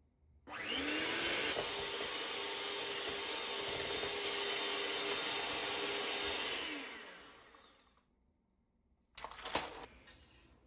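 Electric kitchen blender running: the motor spins up quickly, runs steadily for about six seconds, then winds down. A few sharp clattering knocks follow near the end.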